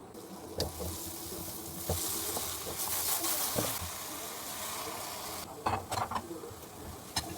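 Food sizzling as it fries in a pan while being stirred, with a steady hiss that swells about two seconds in and a few sharp clicks throughout.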